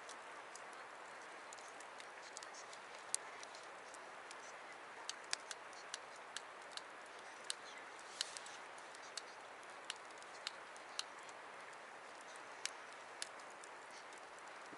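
Wood campfire crackling: irregular sharp pops and snaps of burning wood over a steady hiss.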